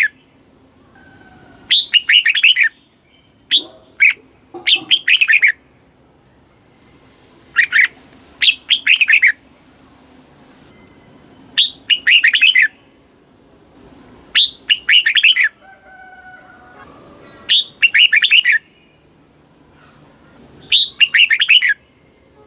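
Red-whiskered bulbul singing: short, loud phrases of quick warbled notes, repeated every two to four seconds, about eight phrases in all.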